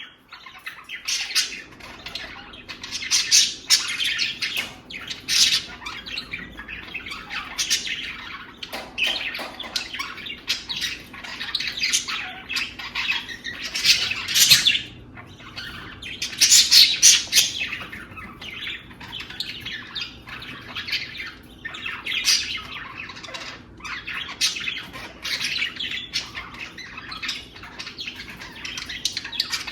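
Budgerigars chattering and squawking without pause, a busy run of short high calls with the loudest bursts around the middle.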